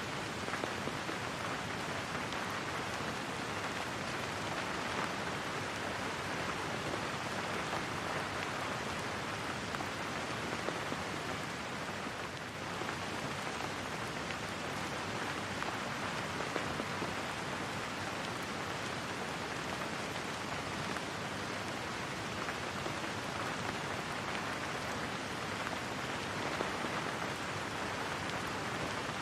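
Steady rain falling and pattering on a surface, an even hiss with no thunder.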